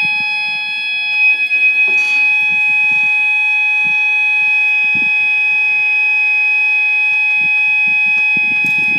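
Level crossing yodel alarm sounding one loud, steady, unbroken tone instead of rising and falling. It is faulty, and the onlookers think a part inside has slipped and left it stuck in continuous mode.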